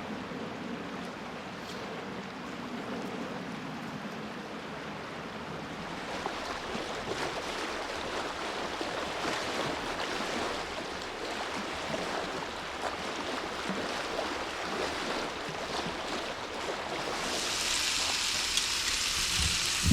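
A creek's water running, a steady rushing. Near the end it gives way to food sizzling in a frying pan.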